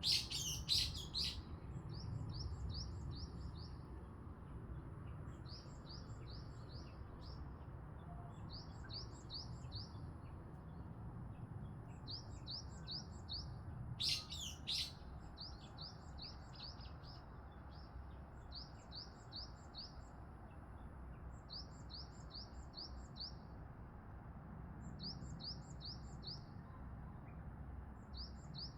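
Birds singing in the morning: one bird repeats a short phrase of four or five quick, high notes about every three seconds, and a louder call breaks in at the start and again about halfway. A steady low rumble runs underneath.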